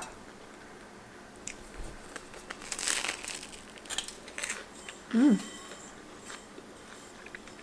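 Crinkling and crunching as a submarine sandwich with crisp bread is handled and bitten into, in a series of short crackles.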